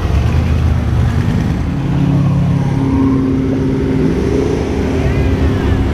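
Car engines running as cars drive past close by one after another, a deep low rumble with a steady engine note held for a few seconds in the middle.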